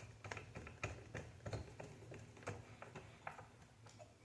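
Faint, irregular small clicks and taps of plastic parts being handled and fitted as the Xbox Series S's plastic back plate is put back on.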